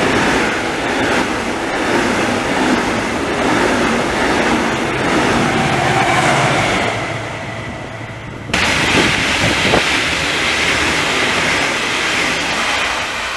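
Double-deck passenger train and its locomotive passing close by at speed: steady rumble and rush of wheels on the rails. About eight and a half seconds in the sound jumps suddenly louder, with brief high ringing tones from the wheels.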